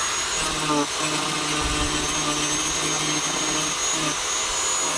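Handheld rotary tool with a diamond disc running at high speed and grinding, a steady high whine over a continuous grinding noise.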